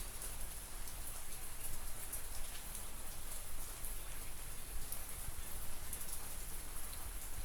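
Light drizzle falling: a steady hiss of rain with scattered faint drop ticks.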